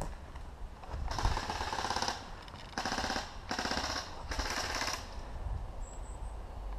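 Airsoft rifle firing four short full-auto bursts in quick succession, each a rapid, even rattle of shots.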